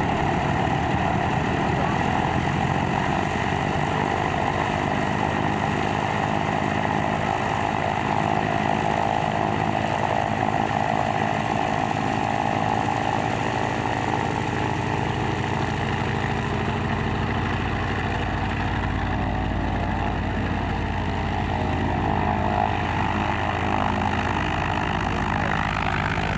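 Lisunov Li-2's Shvetsov ASh-62IR nine-cylinder radial engine running steadily after start-up, at an even, unchanging speed.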